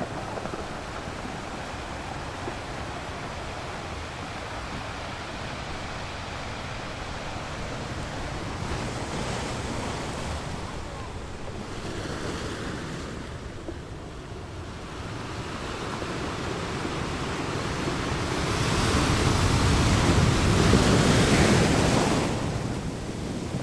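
Ocean waves washing onto a shore in a steady wash that ebbs and swells, with a bigger wave surging in about three quarters of the way through.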